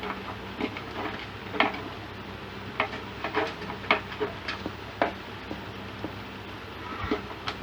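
Small tools and parts being handled on an electronics repair bench: irregular light clicks and taps over a steady low hum.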